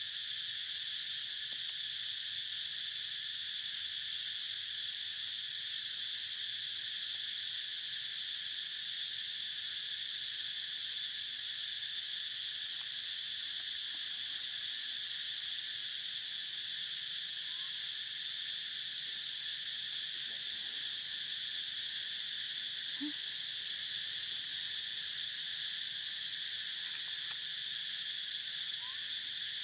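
Steady chorus of insects: a constant high-pitched drone that holds unchanged throughout, with a few faint short chirps in the second half.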